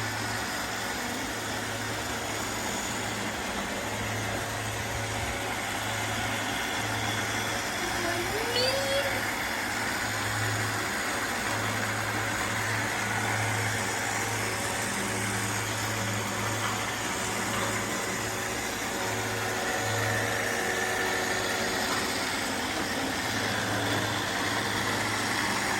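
Robot vacuum cleaners running: a steady whir of suction motors and brushes, with a low hum that cuts in and out.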